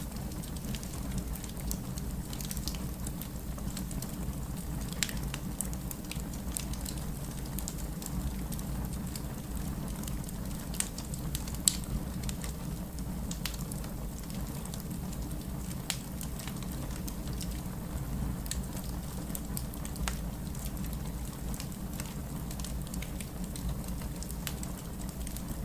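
Wood fire crackling in a fireplace: a steady low rumble of flames with many irregular sharp pops and snaps, a louder pop about 5 seconds in and another near 12 seconds.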